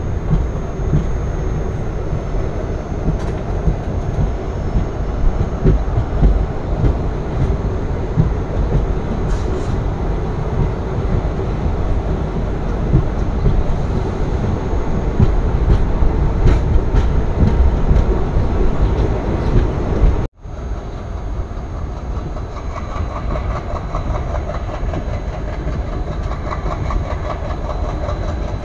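Passenger train coaches running on the rails, with a steady loud rumble of wheels and running gear heard from the open coach door. The sound cuts out briefly about two-thirds of the way through, then carries on.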